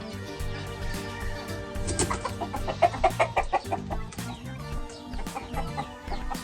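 Gamefowl clucking: a quick run of about eight short calls in a second, about three seconds in, over background music.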